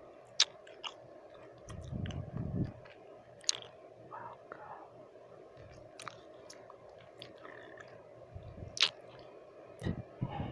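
Close-miked wet mouth sounds: scattered sharp, moist clicks and smacks of lips and tongue, with a few soft breathy puffs, over a steady low hiss.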